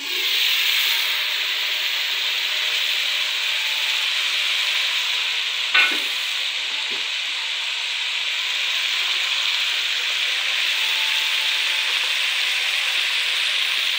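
Browned onions and masala frying in a metal pan, a steady sizzling hiss that comes up all at once as the lid is lifted. One sharp metallic clink about six seconds in.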